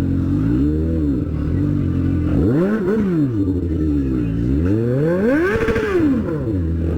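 Motorcycle engine idling and being revved three times, the pitch rising and falling back to idle each time: a short blip about a second in, then two higher revs around three and six seconds in.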